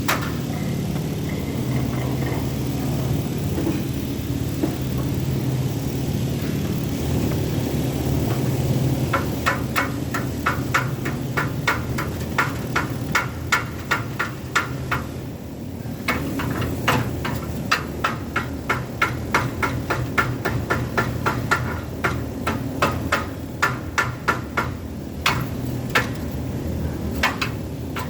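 Light, rapid hammer strikes, two or three a second, begin about nine seconds in and pause briefly midway: a hammer chipping the slag (flux) off a fresh weld. A steady machine hum runs underneath.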